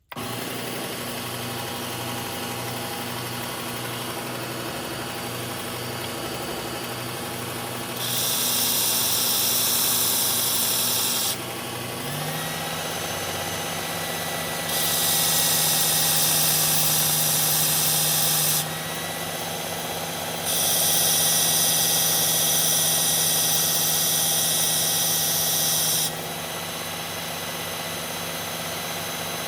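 Electric belt sharpener running steadily, with the blade of a Gerber Propel Downrange automatic knife pressed to the belt three times, giving a loud hissing rasp of a few seconds each time, the last one the longest.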